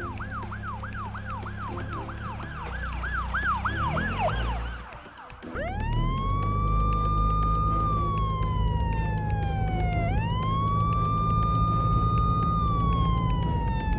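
Police siren on a cartoon police tow truck: a fast yelp that fades out about five seconds in, then a slow wail that rises, holds, glides down and rises again about ten seconds in. A steady low rumble runs underneath.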